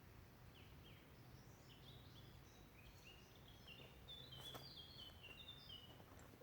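A songbird singing faintly: a run of short, high, quickly repeated falling notes that grows busier in the second half, over a quiet low background, with a single sharp click partway through.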